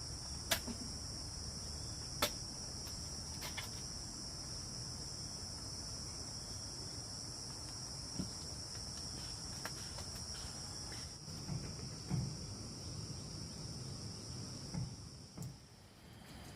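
A steady, high-pitched insect chorus trilling without pause, with a few sharp clicks and some soft low thumps; the chorus cuts out near the end.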